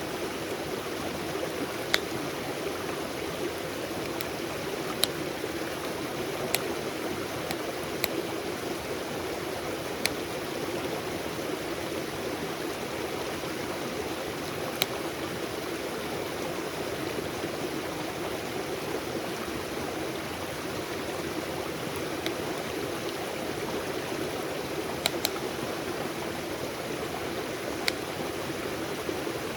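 Campfire crackling: single sharp pops every few seconds, sometimes two close together, over a steady rushing background noise.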